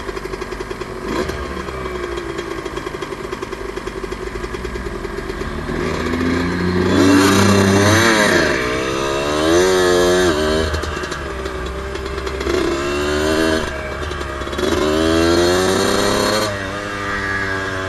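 Suzuki RM125's 125cc single-cylinder two-stroke engine idling with a rapid, even pulse. About six seconds in it pulls away, its pitch climbing and dropping back several times as it revs through the gears.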